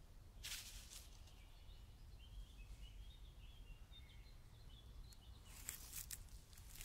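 Quiet woodland with a faint bird chirping a run of short high notes. There are brief rustles about half a second in and again near the end.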